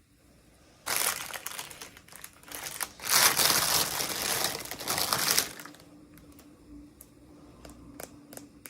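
Packaging being crumpled and crinkled by hand in two spells, the second, from about three seconds in, the louder, followed by a few light clicks and taps.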